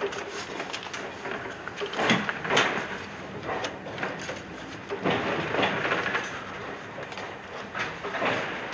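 Iyotetsu 3000 series electric train running along the track, heard from inside the car: a steady rumble with irregular knocks from the wheels passing over rail joints.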